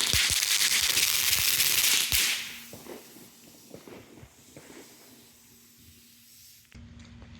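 A consumer firework burning with a loud hiss and dense crackling pops, dying away about two seconds in to a few scattered faint crackles.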